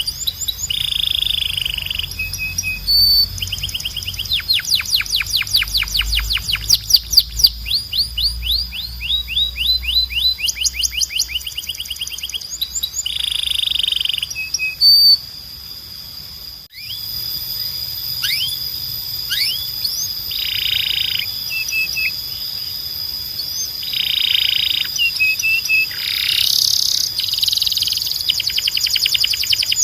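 Belgian canary singing: fast trills of repeated downward-sweeping notes, alternating with short buzzy phrases and held whistled notes. There is a brief break about halfway through before the song resumes.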